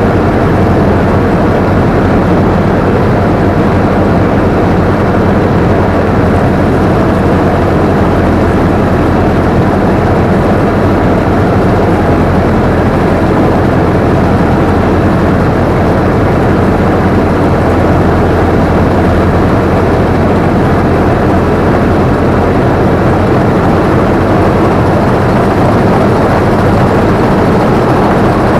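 Combine harvester running steadily at working speed, heard from the operator's seat: a loud, even engine drone with the dense rattle of the machinery, unchanging throughout.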